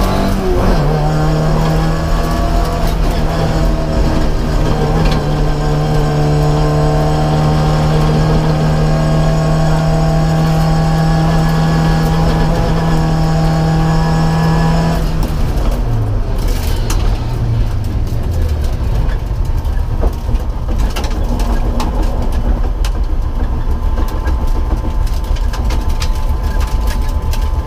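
MGB GT's engine heard from inside the cabin, pulling hard at high revs: the note dips briefly about half a second in, then climbs slowly and steadily. About halfway through it drops abruptly as the throttle is lifted, and the engine runs on at low revs with scattered clicks and rattles.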